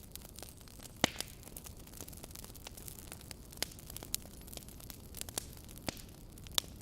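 Wood fire burning with a steady low hiss and scattered crackles and pops, the sharpest about a second in and near the end.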